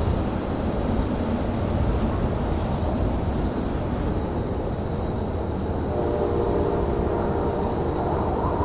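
Steady low rumble of railyard trains and machinery, with a thin steady high whine over it. A brief high chirping comes about three and a half seconds in, and a pitched droning note joins about six seconds in.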